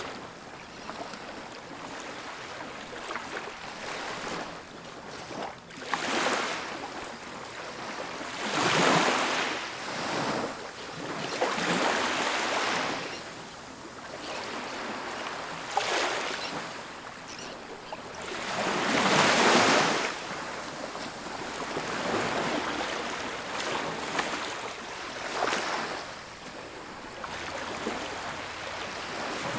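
Ocean waves breaking on a beach, several waves cresting in turn with hiss and wash between them; the two loudest break about nine seconds in and just before twenty seconds.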